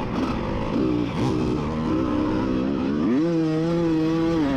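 1988 Honda CR125's single-cylinder two-stroke engine revving under racing throttle, its pitch dipping and climbing, then rising sharply about three seconds in and held high before easing off.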